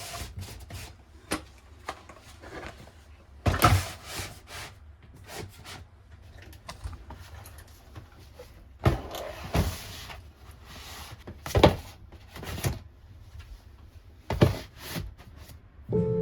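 Plastic storage cases and drawers being handled: irregular knocks and clicks as items and cases are set down, with a few drawers or cases sliding.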